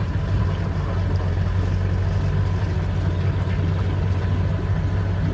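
Boat's inboard engine idling steadily, a low even hum with no change in pace.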